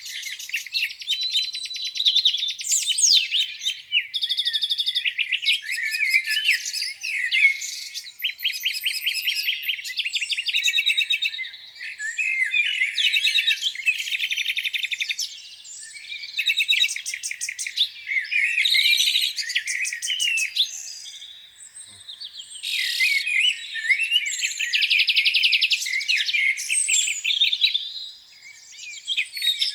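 Several songbirds singing at once: overlapping chirps, whistled phrases and fast trills, with a few brief lulls.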